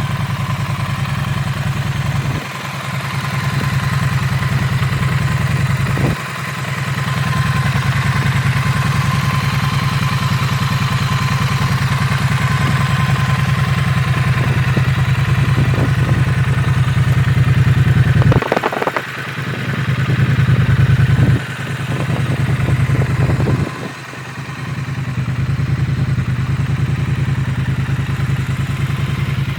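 Triumph Street Twin's 900 cc parallel-twin engine idling steadily, its sound dropping away briefly and coming back five times.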